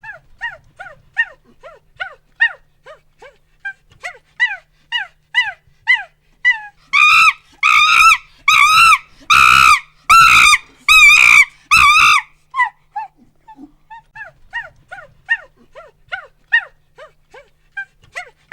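Monkey hooting: a run of short calls that rise and fall in pitch, two or three a second, breaking about seven seconds in into six loud, drawn-out screams, then falling back to quick hoots.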